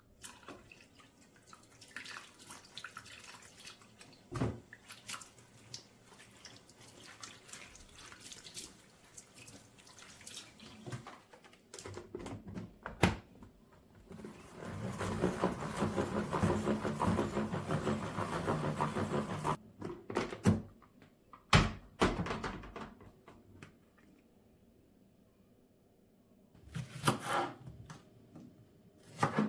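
Kitchen tap running for about five seconds in the middle, shut off suddenly, amid scattered knocks and clatter of kitchenware.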